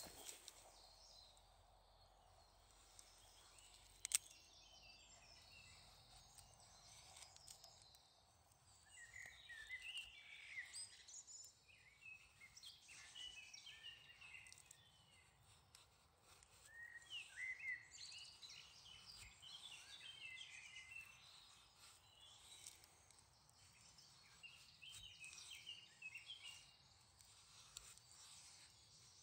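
Faint birdsong: a songbird singing several short phrases of quick chirps, with a single sharp click about four seconds in.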